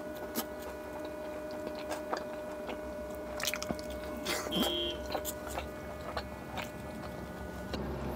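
Close-miked eating sounds: a man chewing chicken with wet mouth clicks and lip smacks, biting into a piece about four seconds in. A steady faint hum sits underneath and stops near the end.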